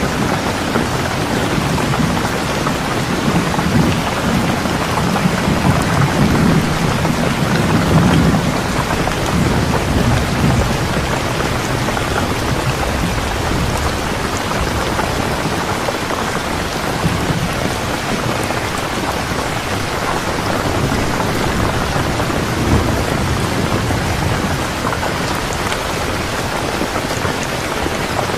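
Steady heavy rain, with low rolling thunder swelling under it from about 4 to 10 seconds in and again faintly near the end.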